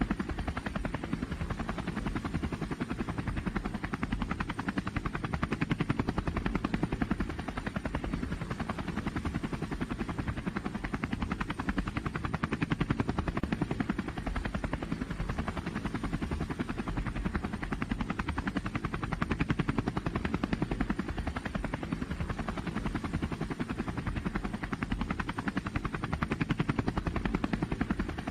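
A pulling vehicle's engine running hard and steady, a fast even pulsing that swells and eases every six or seven seconds.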